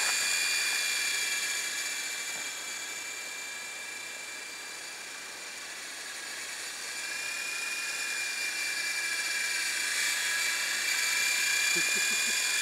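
Radio-controlled model helicopter flying, a steady high-pitched whine of motor and rotors that fades somewhat through the middle and comes back up toward the end.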